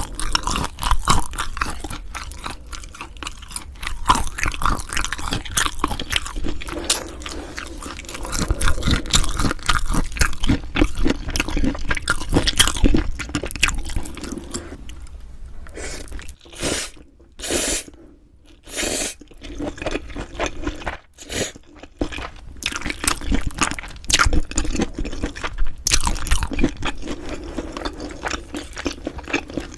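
Close-miked eating sounds of a person chewing and crunching food, with a quieter stretch about halfway through broken by a few short, loud noises.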